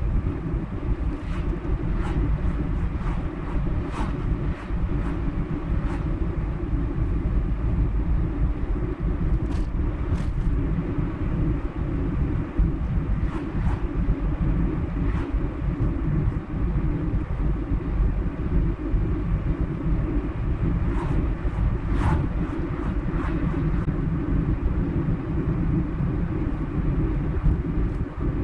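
A car driving at road speed: a steady low rumble of engine and tyres on the road, with faint irregular clicks now and then.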